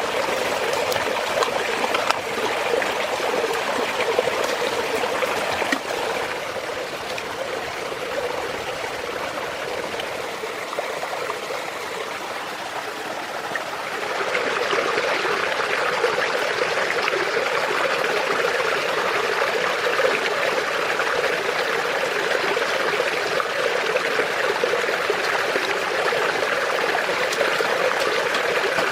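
A stream of running water flowing steadily, growing louder and brighter about halfway through.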